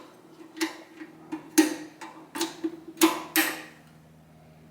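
Tools and small metal parts being handled and set down during motorcycle carburettor work: a run of about seven sharp clinks and taps with a short ring, ending about three and a half seconds in.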